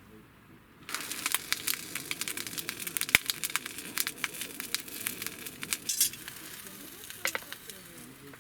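Food sizzling and spitting in a hot frying pan. It starts suddenly about a second in as the food goes onto the heat, then keeps up a steady hiss full of sharp pops, the loudest a little after three seconds.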